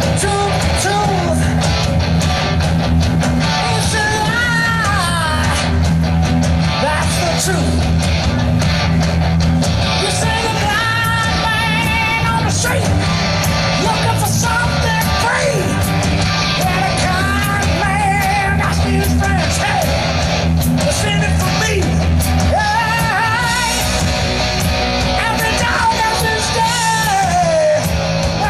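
Live rock band playing, with a singer and electric guitar over a steady bass line.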